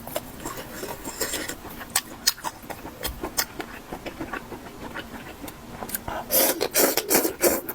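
Close-miked eating of mala xiang guo (spicy stir-fry pot): wet mouth clicks and chewing, growing into loud, rapid crunchy chewing about six seconds in.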